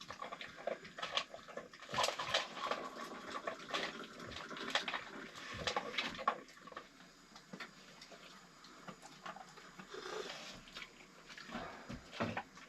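A dog playing with its ball: irregular small clicks and scuffing sounds, busy at first and thinning out past the middle.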